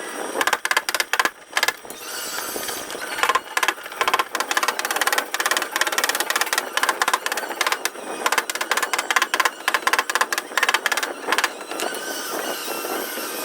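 Rapid light tapping on a car body panel, in quick runs with short pauses between them: paintless dent repair work, tapping the metal back into shape.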